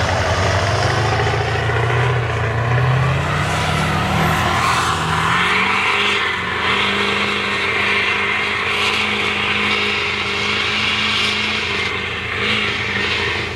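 Diesel engine of a mega mud truck under throttle. It climbs in pitch for about five seconds, then holds steady at high revs.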